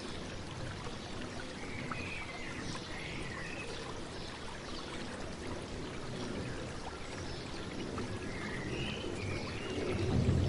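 A stream flowing and babbling steadily, with short bird chirps twice, about two seconds in and again near nine seconds. The water swells louder just before the end.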